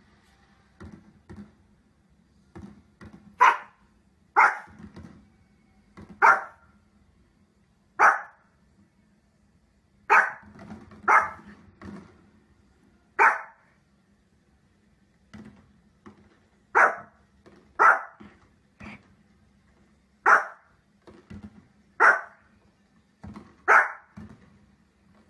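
Pomeranian barking: about fourteen sharp single barks spaced irregularly, one to two seconds apart, with fainter short barks between them and a faint low hum underneath.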